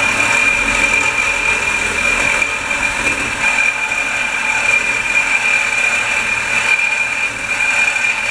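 A power saw running steadily with a high whine as it cuts through wooden framing.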